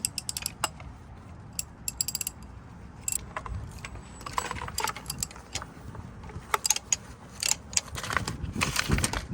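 Socket ratchet wrench clicking in quick bursts as it works a large socket, with scattered clanks and scrapes of metal tools against the engine, heavier in the second half.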